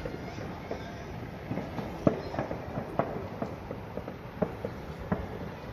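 Distant fireworks and firecrackers going off across the city: irregular pops and bangs at uneven intervals over a steady low rumble, the sharpest bang about two seconds in.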